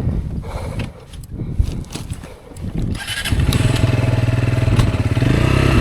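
Rieju Aventura 125's single-cylinder engine: low and uneven with a few clicks for the first three seconds, then a steady running note comes in suddenly about three seconds in.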